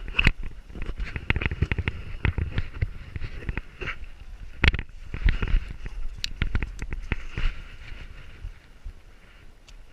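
A GoPro camera strapped to a running dog's back, jolted with each stride: rapid, irregular knocks and scuffs over a low rumble, quieter in the last couple of seconds.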